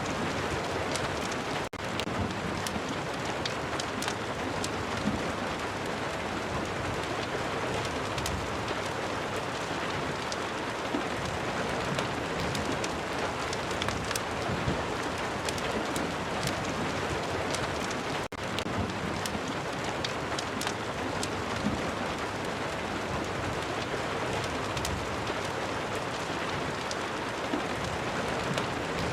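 Ambient rain-and-fireplace track: steady rain falling, with scattered sharp crackles and ticks over it. The sound drops out for an instant twice, about two seconds in and again just past the middle.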